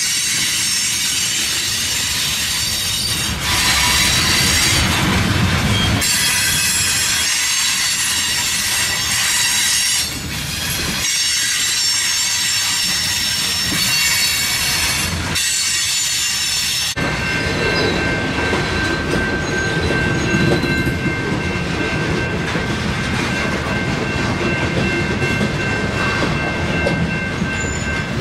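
Loaded covered hopper cars of a slow freight train rolling around a curve, their wheels squealing high-pitched, with the squeal shifting every few seconds. About two-thirds in the sound changes to a lower rumble and clatter of cars rolling over a grade crossing, with steady high ringing tones over it.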